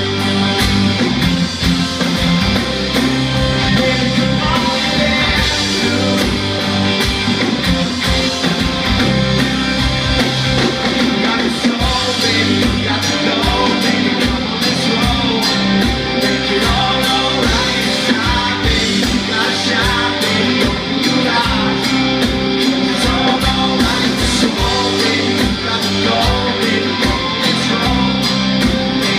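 Live rock band playing, with guitars over a steady drum beat.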